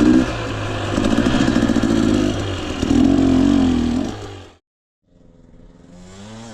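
Two-stroke engine of a Husqvarna TE250i dirt bike running on the trail, its pitch rising and falling with the throttle, then cutting off abruptly about four and a half seconds in. A fainter, different sound with a bending pitch follows near the end.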